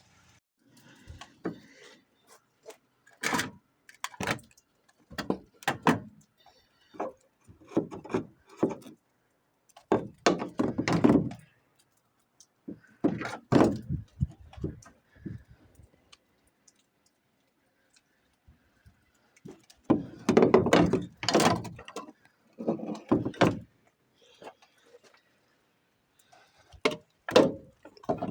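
Irregular knocks, thunks and metallic rattles from hand work on a car, coming in short bursts with quiet gaps between them.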